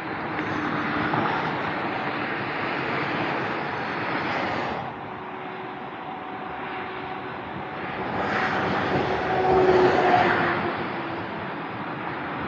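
Autobahn traffic passing at speed: a steady rush of tyre and engine noise from cars and trucks, easing off for a few seconds mid-way and swelling as louder vehicles go by about nine to ten seconds in.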